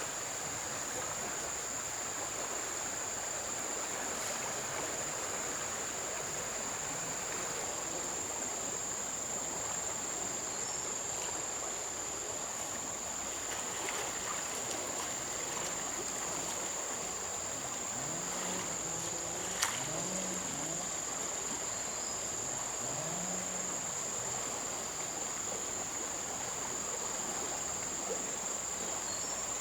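Flowing river water with a steady, high-pitched insect trill running over it. About two-thirds of the way through come a few short, low sounds and a single sharp click.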